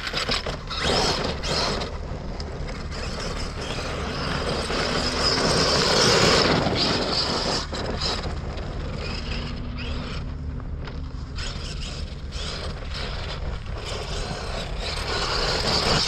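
Electric RC monster truck (Arrma Kraton) with a brushless motor, driven hard over rough construction-site ground. Motor whine and tyres scrabbling and crunching surge and fade with the throttle.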